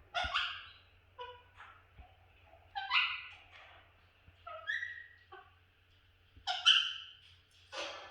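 Pet budgerigar chattering: a string of short, pitched chirps and squawks, one burst every second or so.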